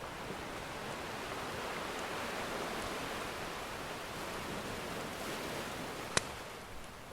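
Ocean surf washing steadily, with a single sharp pop from a wood fire about six seconds in.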